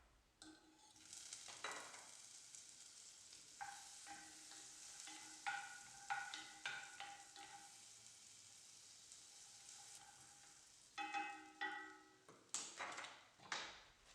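Food sizzling in a frying pan with a steady hiss, while a utensil stirs and scrapes against the pan in short strokes.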